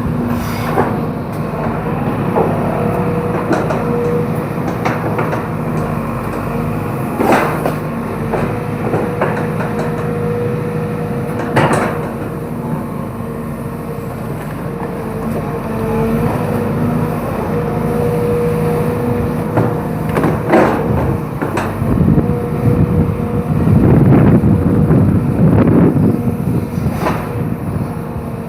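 Hydraulic excavator's diesel engine running steadily, louder and rougher for a few seconds near the end as it works under load, with a few sharp cracks scattered through.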